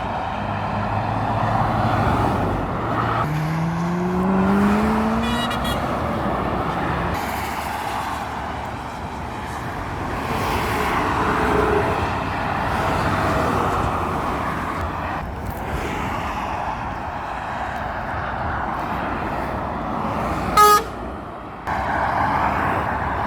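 Roadside traffic noise from passing vehicles. A few seconds in, a heavy vehicle's engine climbs steadily in pitch as it accelerates away. Near the end comes one short, loud horn toot.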